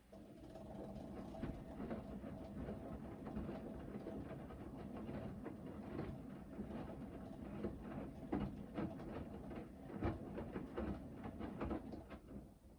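Hoover VHD 9163 ZI front-loading washing machine's drum tumbling through one turn of the main wash: the motor hums steadily while the wet laundry and water slosh and thud irregularly. It starts abruptly and stops after about 13 seconds, a pause in the wash rhythm.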